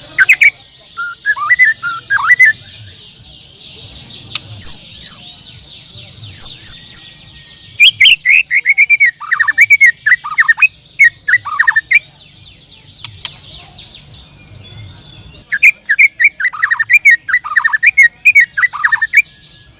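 Several caged songbirds singing together as a continuous chirping chorus, with one bird loudly singing repeated runs of quick, falling whistled notes and sharp high chirps in four spells.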